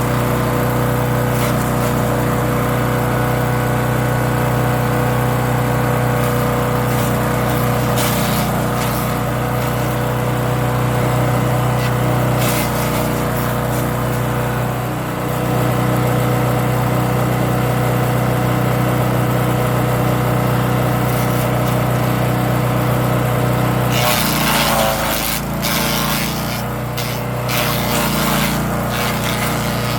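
Champion 224cc wood chipper's single-cylinder gas engine running at a steady speed, with a few sharp knocks as material goes through. About 24 seconds in, a rougher, noisier stretch of chipping briefly pulls the engine note down.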